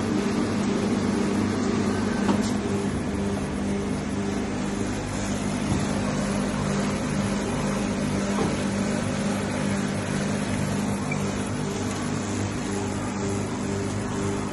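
A steady low machine hum with a constant drone and background noise.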